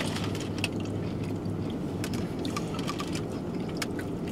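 A man chewing a mouthful of sandwich, with scattered small wet clicks, over a steady low hum inside a car.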